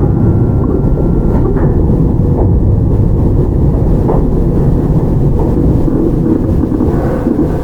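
Running sound inside a Toyama Chiho Railway 17480 series electric car, a field-chopper-controlled ex-Tokyu 8090 series train, in motion: a steady loud rumble of wheels and traction gear on the track. A faint high tone fades out about a second and a half in.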